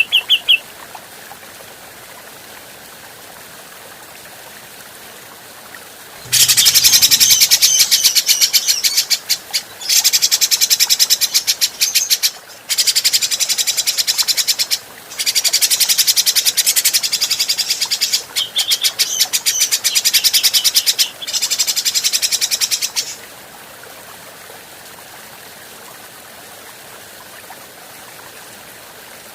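Cucak jenggot (grey-cheeked bulbul) giving very rapid, scratchy chattering calls in about five stretches of a few seconds each, from about six seconds in until about 23 seconds in. A whistled trill ends just as the clip begins, and otherwise there is only faint background hiss.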